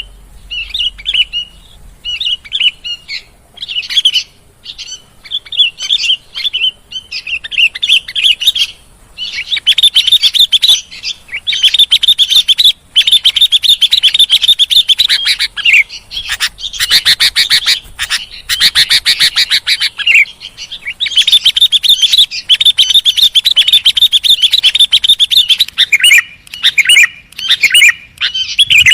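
Sooty-headed bulbul (kutilang) singing and chattering loudly. It gives short chirping phrases at first, then from about nine seconds in a dense, rapid twittering with only brief breaks.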